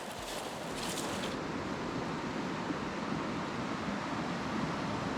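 Steady rushing of a fast, high-running river, with its hiss thinning out about a second and a half in.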